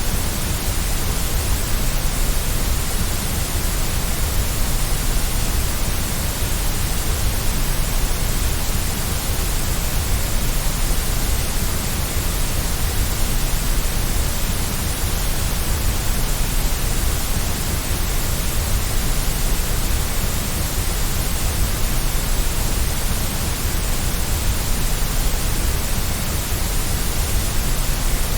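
Steady white noise for soothing a baby to sleep: an even, unchanging hiss with a strong low rumble underneath.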